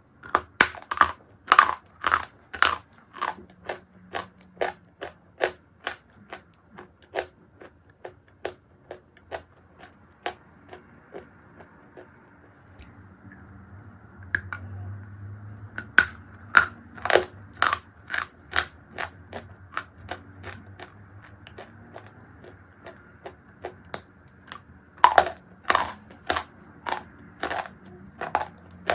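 Chewing a piece of crunchy edible chalk close to the microphone: a steady run of sharp crunches, about two a second, which thin out and soften for a few seconds around the middle before picking up again.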